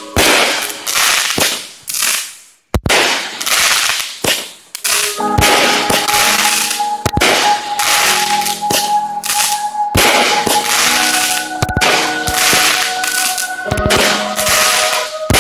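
Consumer fireworks going off: repeated sharp bangs over dense crackling from bursting crackle stars, cutting out briefly about two and a half seconds in.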